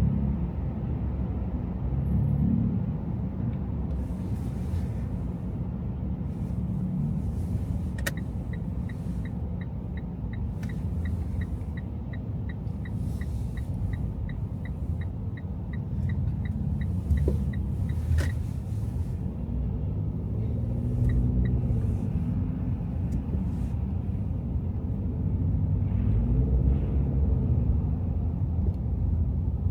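Car driving on city streets, a steady low rumble of engine and tyres. About a third of the way in, a turn-signal indicator ticks evenly, about two to three times a second, for roughly ten seconds, then stops with a click.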